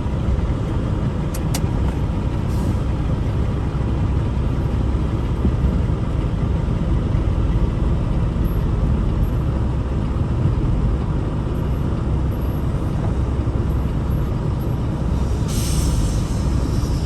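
Peterbilt 579 semi-truck's diesel engine running steadily at low speed, heard from inside the cab, with a short hiss of air from the air brakes near the end.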